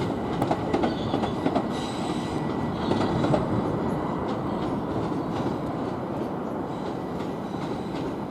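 Southeastern Class 375 electric multiple unit pulling away and running past: a steady rumble of wheels on rail, with a faint high whine and a few light clicks of wheels over rail joints.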